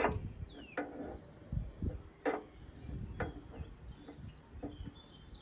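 Birds chirping in the background, with a few sharp clicks or knocks, the loudest right at the start and about two seconds in.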